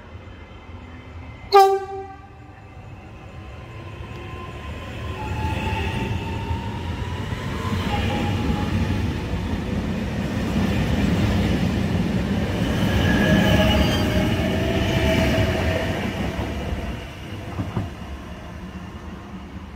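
Regional electric multiple unit gives one short, sharp horn toot, then runs past on the platform track: a rush of wheels and running gear with a whining tone that builds, peaks as it passes, and fades as it moves away.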